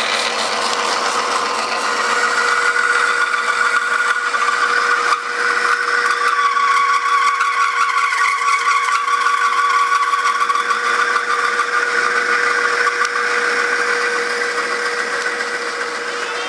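A motor-driven machine switched on abruptly and running steadily, with a constant hum and a wavering high-pitched squeal over it.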